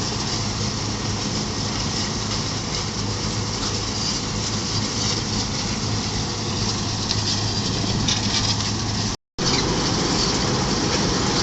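Road milling machine at work: its diesel engine hums steadily under a dense grinding noise as the cutting drum scrapes up the hard bituminous (DBM) asphalt layer. The sound cuts out completely for a split second about nine seconds in.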